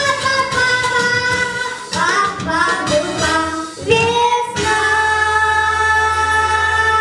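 A young girl singing solo over a backing track. About four and a half seconds in she settles onto one long held note.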